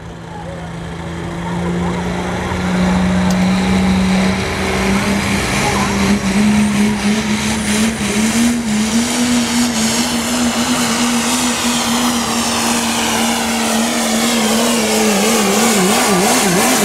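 Turbocharged diesel pickup in the 3.0 pulling class running at full throttle while pulling the sled. The engine note climbs in pitch over the first few seconds, then holds steady, and wavers up and down near the end.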